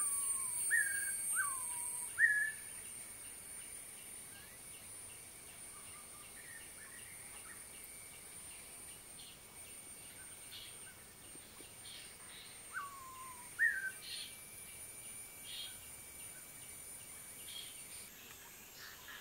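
Bird calls of clear whistles. Each is a note sliding down, answered by a short upward-hooked note, given three times in the first couple of seconds and once more about two-thirds of the way through. A steady high-pitched ringing sits above them.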